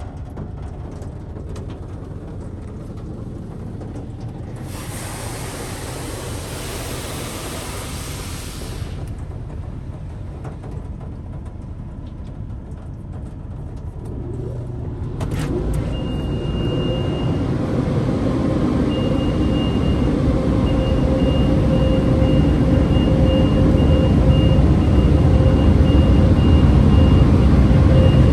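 Washworld High Velocity touchless car wash machinery running, with a hissing spray for a few seconds. About halfway through, a louder machine starts up and builds to a steady rumble with a whine that keeps breaking up.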